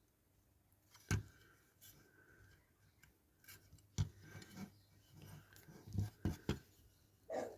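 Small sharp clicks and light scraping as plastic spotlights are prised out of a diecast toy car body with a screwdriver. One click about a second in, another near four seconds, and a quick cluster of three around six seconds.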